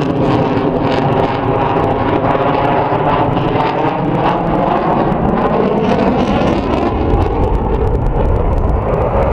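Loud, steady jet engine noise from a display aircraft in flight, with faint tones that slowly bend in pitch as it moves across the sky.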